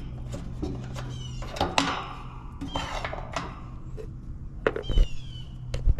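Steady low hum of a running air-conditioning system, with repeated short, high, falling chirps and a few sharp clicks, one louder knock about five seconds in.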